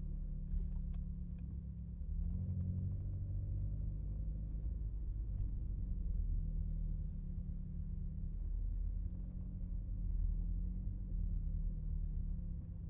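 Renault Megane RS Trophy's turbocharged four-cylinder engine running at low revs while driving, a steady low drone whose pitch rises slightly about two seconds in and then drifts gently up and down. A few faint ticks in the first second and a half.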